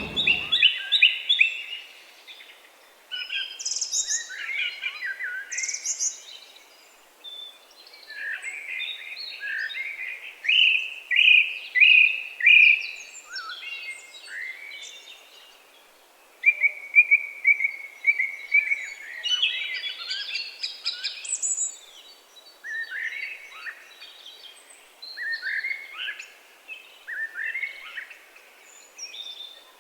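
Several songbirds singing and calling over one another: short chirps, quick trilled phrases and high whistled notes.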